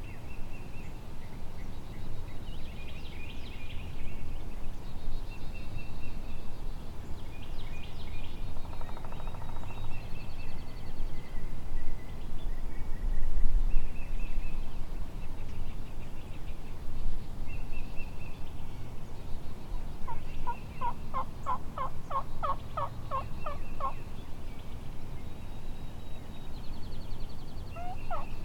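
A run of about a dozen turkey yelps, evenly spaced over some three seconds, about twenty seconds in, and another run starting near the end. Small songbirds chirp throughout.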